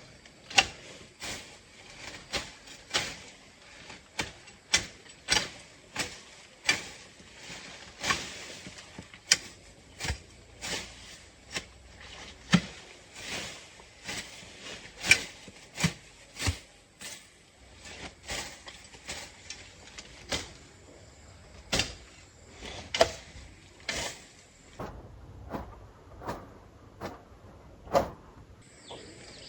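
Repeated sharp knocks or strikes, irregularly spaced at about one or two a second, with a short pause about three-quarters of the way through.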